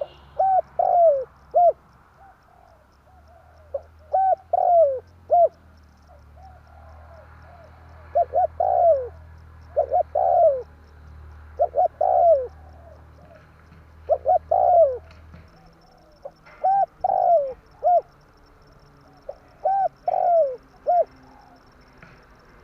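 Spotted dove cooing: a phrase of three or four short, falling coo notes about every two seconds. This is the tekukur lure call used to attract wild doves.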